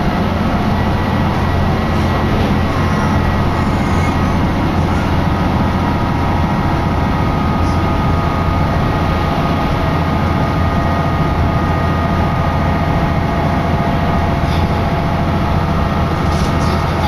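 Hitachinaka Seaside Railway diesel railcar running along the line, heard from inside the car: a steady, loud drone of engine and wheels on the rails.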